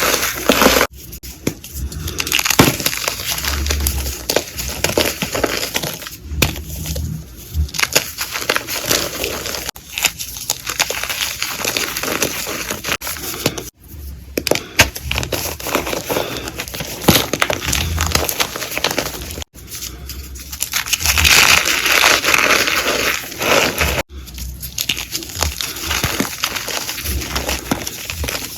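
Blocks of gym chalk being crushed and crumbled, a dense crunching and crackling. It comes in a series of short takes, each cut off abruptly after a few seconds.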